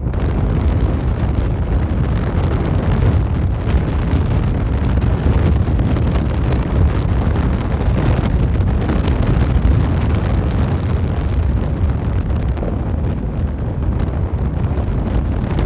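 Steady, loud wind rumble on the microphone from riding a Bajaj Pulsar NS200 motorcycle at speed, with the bike's running and road noise beneath it.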